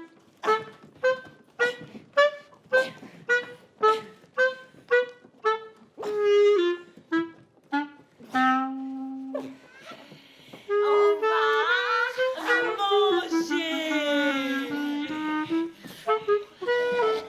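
Music on a wind instrument: short detached notes about two a second, then one long low held note, then a fuller passage with pitches sliding up and down.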